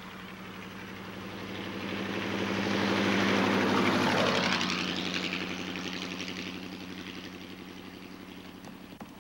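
Vintage open roadster driving past: its engine grows louder, is loudest as it goes by about four seconds in, then fades away as it recedes.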